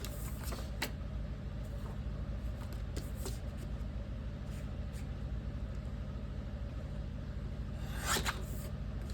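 Photo paper being trimmed: a few faint clicks of paper handling, then one short cutting stroke near the end, over a steady low hum.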